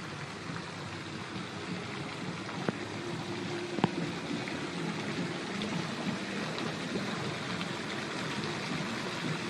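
Steady rush of splashing, flowing water, with faint murmuring in the background and a sharp tick just under four seconds in.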